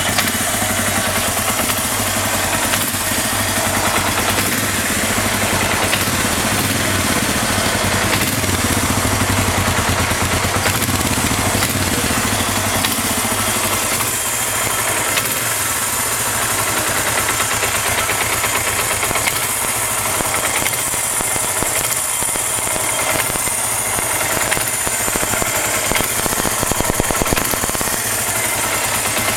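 Suzuki GS400 motorcycle's air-cooled parallel-twin engine running steadily just after a start, with an even idle. The owner describes it as free of any abnormal noise, with the points and ignition timing set.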